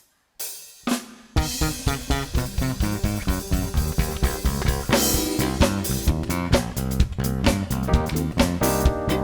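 Live band playing an instrumental groove on drum kit, bass and guitar. A couple of drum hits open it, and the full band comes in about a second and a half in.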